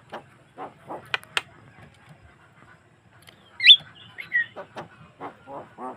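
Javan myna (jalak kebo) singing: a string of short, harsh chattering notes and sharp clicks, with a loud whistled note a little past halfway.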